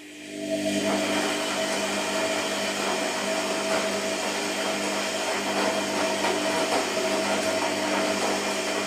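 Washing machine motor starting up: the sound rises within the first half-second, then runs steadily with a hum of several held tones over a rushing noise.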